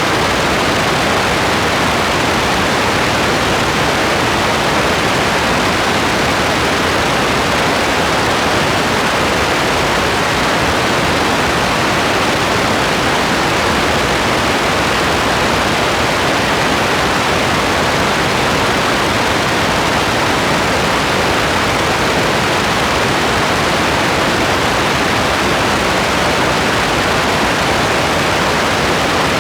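Steady rain, an even, unbroken hiss with no separate drops or gusts standing out.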